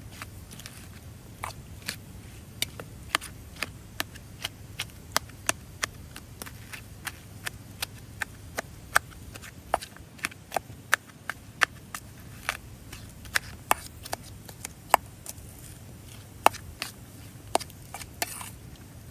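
Wood campfire crackling: irregular sharp pops and snaps, a few every second, some much louder than others, over a low steady background.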